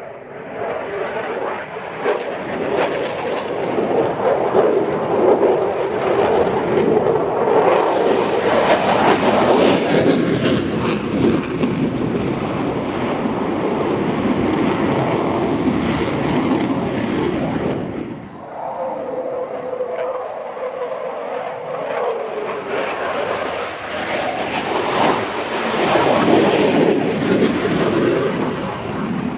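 Fixed-wing aircraft engine noise, swelling to a peak, dropping away suddenly, then building again before fading.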